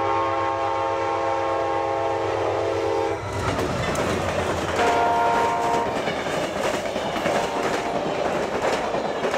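Passenger train's locomotive horn sounding one long chord that cuts off about three seconds in. Then the rush and rattle of the train passing close by, with a second, shorter horn blast about five seconds in.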